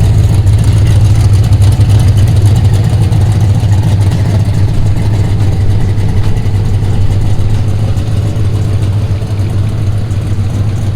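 A car engine running steadily with a loud, low drone, easing off slightly toward the end.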